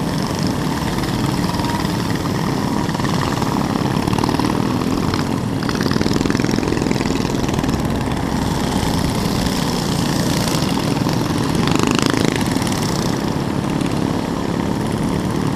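Mini bike engine running steadily, a continuous small-engine drone.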